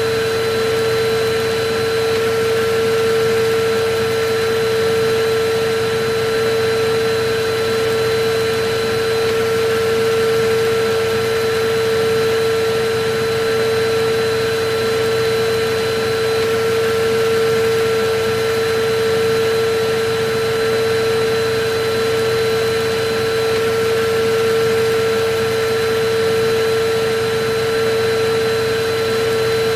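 Electric vacuum cleaner running steadily: an even, unchanging hiss with a constant mid-pitched motor whine.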